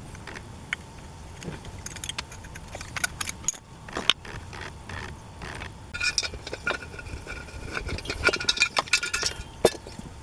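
Small metal chainsaw engine parts clinking, clicking and rattling as they are handled. From about six seconds in, a metallic ringing is heard for a few seconds.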